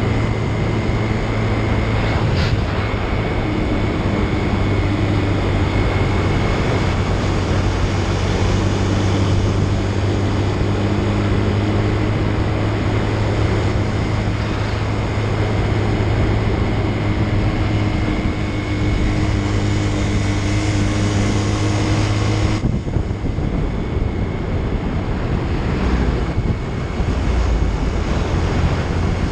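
Motorcycle engine running steadily at road speed under heavy wind rush on the microphone. Near the end the wind rush drops off suddenly and the engine note settles a little lower.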